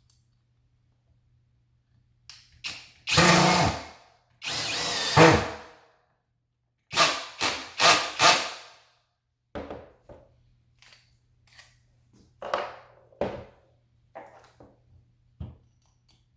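Skil PWRCore 20V brushless cordless drill driver run in short bursts of about a second, one winding up in pitch. Three quicker bursts follow, then scattered clicks and knocks as the tool is handled.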